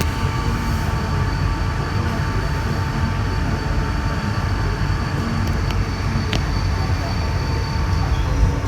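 Santiago Metro NS-93 rubber-tyred train running, heard from inside a car: a steady low rumble with a constant whine, and a single sharp click about six seconds in.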